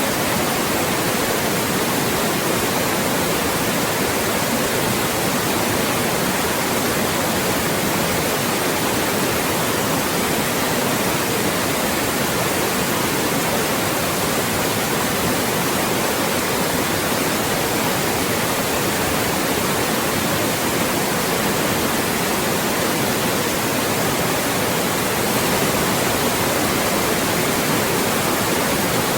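Loud, steady synthetic white noise: an even, unchanging hiss with nothing else in it.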